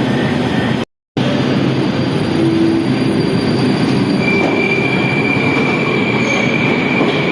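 Moscow Metro train running between stations with a steady rumble of wheels on rails. A steady high wheel squeal joins about four seconds in. The sound cuts out briefly about a second in.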